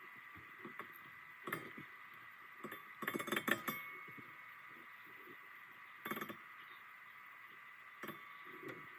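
Metal hand tools and parts clinking and tapping while a starter is removed to reach the torque converter bolts. The clinks come as a few scattered single knocks, with a quick rattling cluster about three seconds in.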